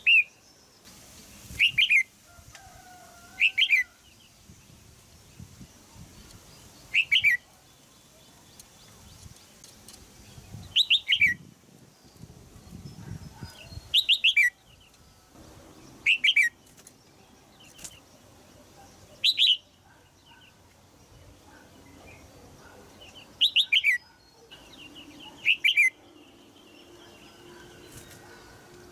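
Female red-whiskered bulbul giving sharp, repeated calls, each a quick run of two or three notes sliding down in pitch, about ten calls a few seconds apart.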